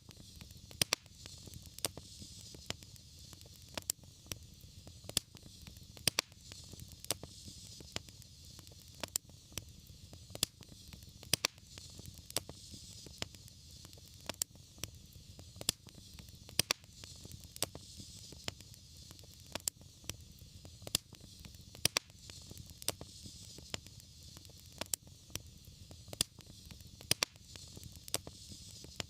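Wood fire crackling, with sharp irregular pops about once or twice a second over a low steady rumble and a soft hiss.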